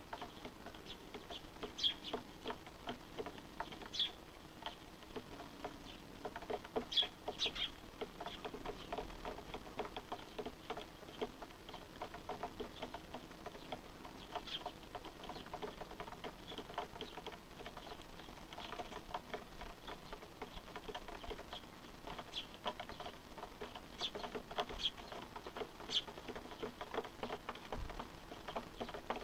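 Small birds calling in short, sharp high chirps scattered through, amid a dense patter of faint clicks and ticks: young birds begging for food and being fed by their parents.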